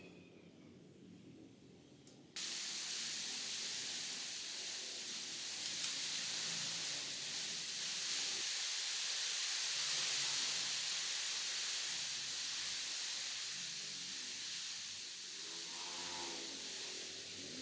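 Angle grinder cutting metal: a steady, harsh hiss that starts suddenly about two seconds in and holds.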